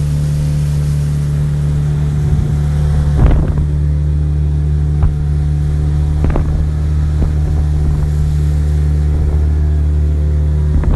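Boat engine running steadily with a low drone, with a few brief knocks or thumps standing out over it, the loudest about a third of the way in.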